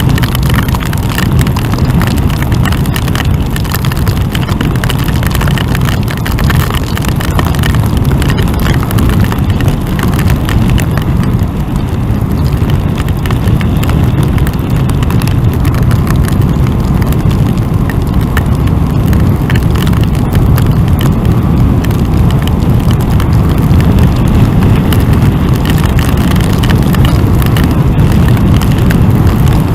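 Wind roaring over the microphone of a motorcycle at riding speed, with a dense, steady patter of hail and rain striking close to the microphone.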